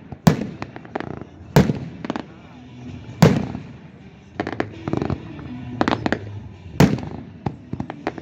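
Fireworks going off: a string of sharp bangs at irregular intervals, about a dozen in all. The loudest come about one and a half seconds in, just past three seconds, and near seven seconds.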